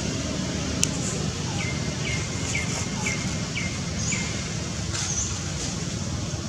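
A bird calling a run of six short, falling chirps at about two a second, with a few higher chirps later, over a steady low rumble. A sharp click comes just before the chirps.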